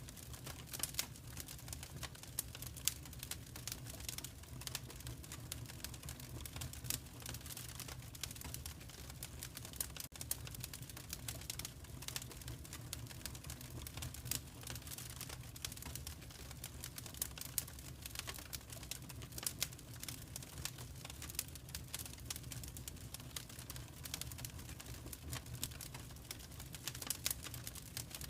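Wood fire crackling in a fireplace: dense, irregular small snaps and pops over a low steady rumble.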